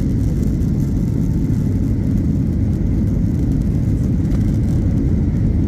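Steady low rumble of an airliner's jet engines during takeoff.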